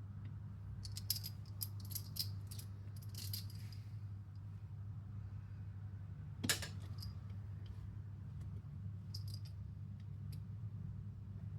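Small metal parts clicking and clinking as an airsoft gearbox is handled and assembled: a run of light taps in the first few seconds, one sharper click about six and a half seconds in, and a few more clicks later, over a steady low hum.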